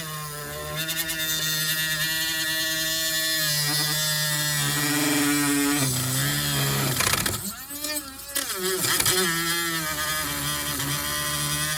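A high-speed rotary tool with a cutting disc, running with a steady whine whose pitch sags and recovers a few times past the middle as it is loaded against the material being cut.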